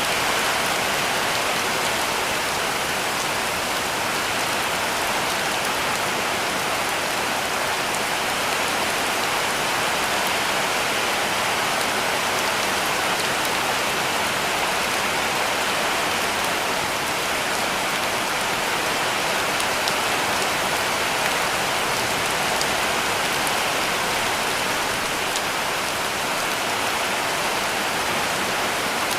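Heavy rain falling steadily on a cabin roof: an even hiss with faint scattered drop ticks.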